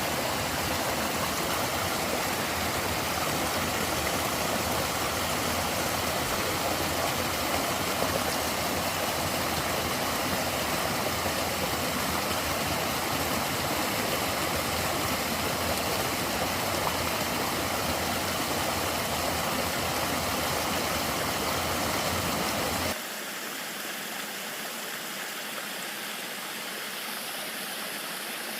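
Steady rushing of river water. About 23 s in it cuts suddenly to a quieter, thinner water sound.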